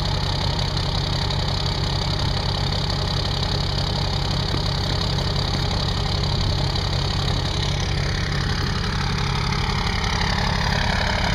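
12-valve Cummins 5.9 inline-six diesel idling after a cold start at about 20°F with no preheat, with a steady, even diesel clatter. A faint high whine falls in pitch over the last few seconds.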